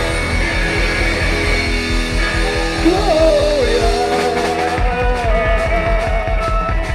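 Rock band playing live: electric guitar, bass and drums over a steady beat. Near the end, a long held note wavers in pitch above the band.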